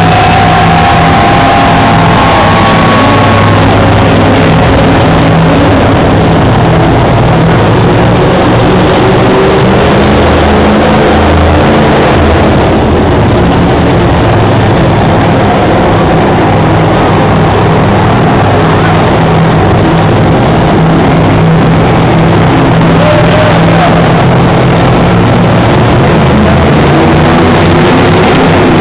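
Monster truck engine running hard and very loud throughout, the sound pinned near full scale and distorted.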